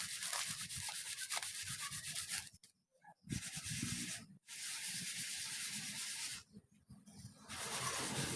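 Repeated scraping or rubbing strokes, like sanding or scraping a surface by hand, cut off abruptly three times by brief silences.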